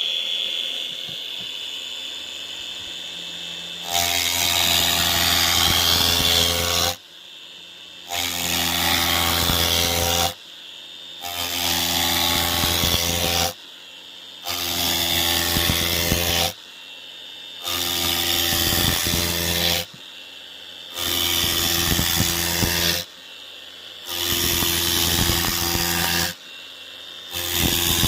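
Router milling Penoplex extruded polystyrene foam. A steady high whine runs for about four seconds, then comes a series of eight loud cutting passes of two to three seconds each, with a short drop of about a second between them.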